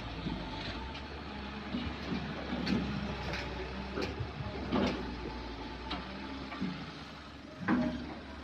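Kobelco 07 excavator engine running steadily, with scattered metallic clanks and knocks from the working machine.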